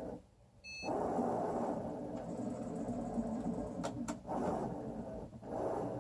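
Excalibur Mirage chess computer's robotic mechanism running, its motors whirring as the electromagnetic head travels across the board moving pieces. The motor noise stops briefly near the start, where a short electronic beep sounds, then resumes, with a couple of sharp clicks about two-thirds of the way through.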